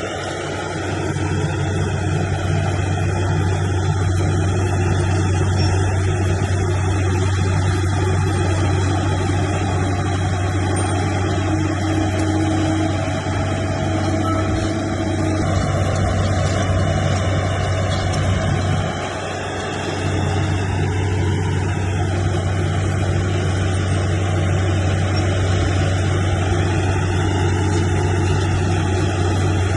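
Heavy diesel engine of earthmoving machinery running steadily at a constant speed. The sound drops off briefly about two-thirds of the way through, then comes back.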